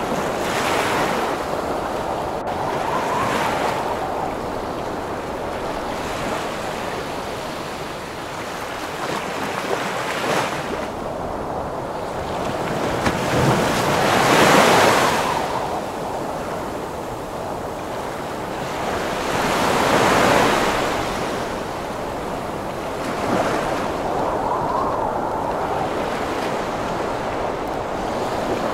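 Heavy ocean waves breaking and washing in under strong wind, a steady rush of surf with a big surge every five or six seconds, the loudest about halfway through.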